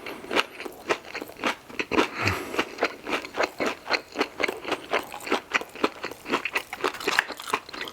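Close-miked chewing of crispy garlic parmesan chicken wings: wet crunches and mouth clicks, about three to four a second, with a brief hum about two seconds in.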